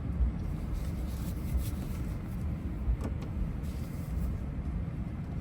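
Steady low rumble of road and engine noise inside the cab of a 2024 Ram 1500 Laramie with its Hemi V8, driving along in four-wheel drive. A faint click comes about three seconds in.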